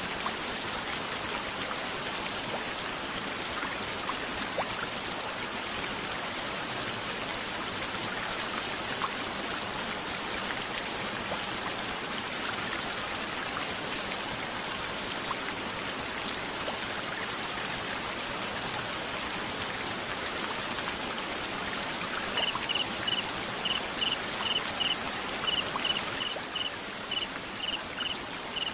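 Steady water hiss like falling rain. About three quarters of the way in a cricket starts chirping, a run of short high chirps a few per second.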